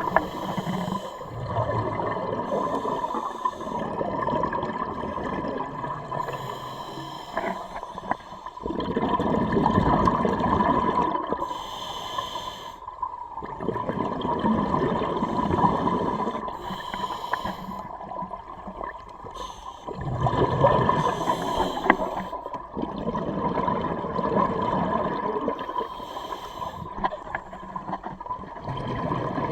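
Scuba diver breathing through a regulator underwater. Each breath is a short hiss on the inhale followed by a longer rush of exhaled bubbles, about every five seconds.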